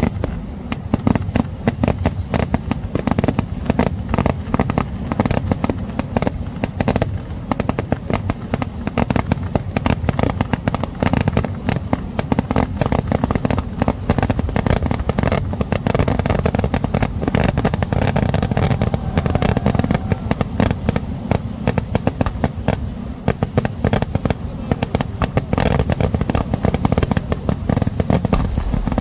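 Kerala temple-festival fireworks going off in a dense, unbroken barrage of bangs, many per second.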